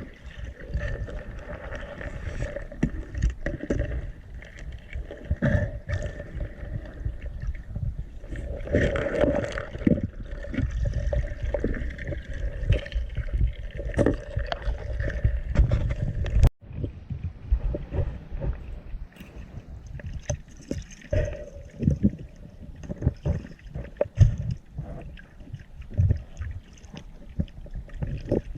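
Sea water sloshing and gurgling around a diving camera, with irregular knocks and a low rumble; the sound drops out for an instant about halfway through.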